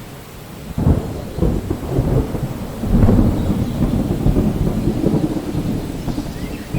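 Thunder rumbling over steady rain: the rumble breaks in sharply about a second in, swells again about three seconds in, then slowly eases.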